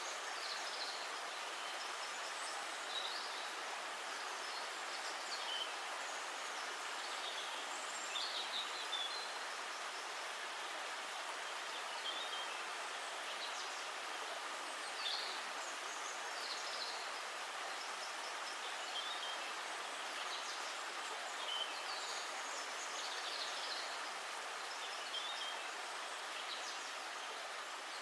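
Steady rush of flowing water, like a stream, with short high bird chirps scattered through it.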